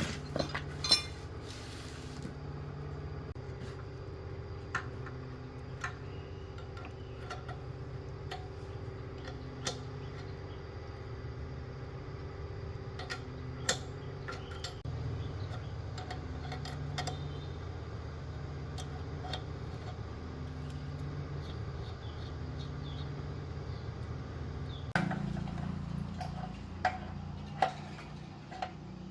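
Scattered light metallic clicks, taps and clinks of hand tools and small parts being handled during repair work, over a steady low hum.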